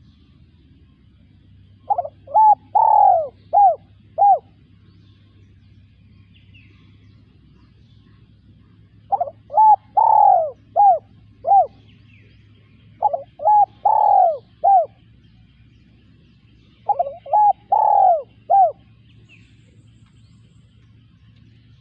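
Spotted dove cooing: four song phrases a few seconds apart. Each phrase is a quick run of about five coos with one longer, drawn-out coo in the middle.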